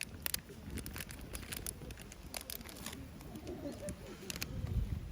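A dove cooing softly about three seconds in, amid scattered sharp clicks and crackles.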